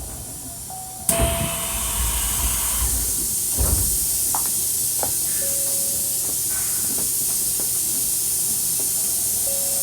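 A Hankyu 1300 series train standing at a station. About a second in, its doors open with a sudden burst of air hiss, and a steady hiss goes on after it.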